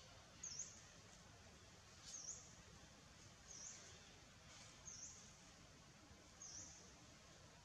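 Faint forest ambience with a small bird repeating a short, high chirp that dips and rises in pitch, five times, about once every one and a half seconds.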